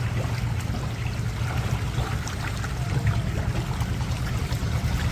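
Steady running water, trickling and splashing, with a constant low rumble underneath.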